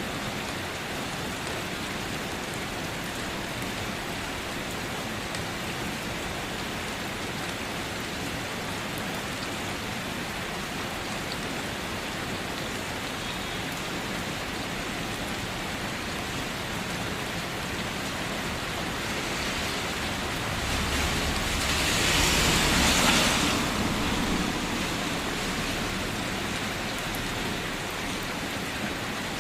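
Steady rain falling, an even hiss of rain on a surface. About two-thirds of the way through it briefly swells louder, with a low rumble underneath.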